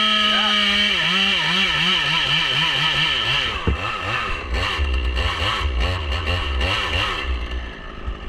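Two-stroke chainsaw held at high revs, its pitch wavering up and down about three times a second, then let off to a low, uneven idle about three and a half seconds in, with a sharp click as it drops.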